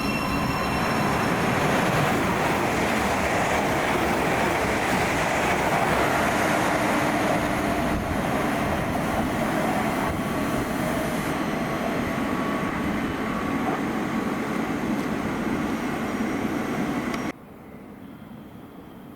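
Passenger train running through the station at speed: a loud, steady rush of wheels on rail that cuts off suddenly near the end.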